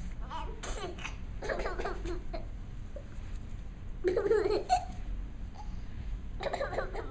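A young child laughing and making silly vocal noises in short bursts, about four times, the loudest a little after four seconds in.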